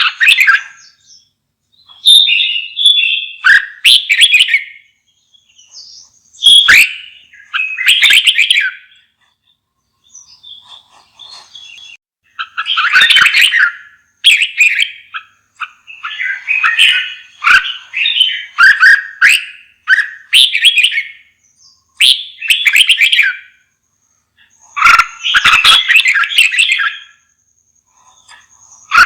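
Red-whiskered bulbul singing loudly in short, quick warbled phrases of about a second each, with brief pauses between them.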